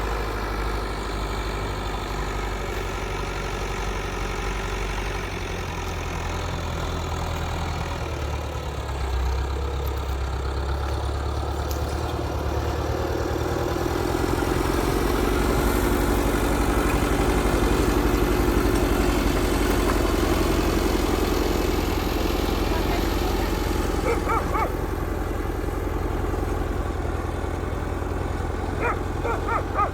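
Engine running steadily, growing a little louder about halfway through and then settling back.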